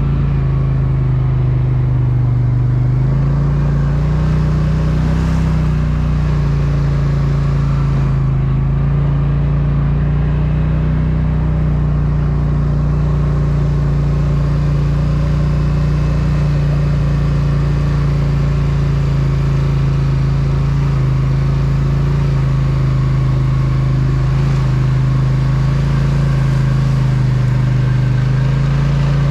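Polaris Sportsman ATV engine running steadily at low speed, its pitch stepping up slightly about three seconds in and then holding.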